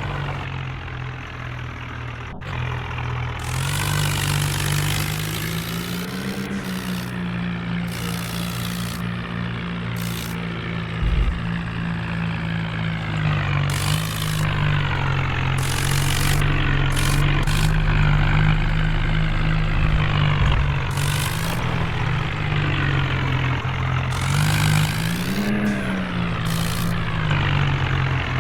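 Tractor's diesel engine running hard under load, its pitch rising and falling as the revs swell and drop while it tries to pull itself free. Short spells of hiss come and go over it.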